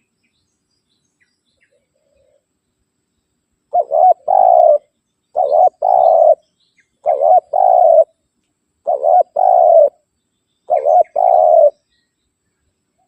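Spotted dove (tekukur) cooing its challenge call to a rival: five repeated phrases starting a few seconds in, each a quick double note followed by a longer coo.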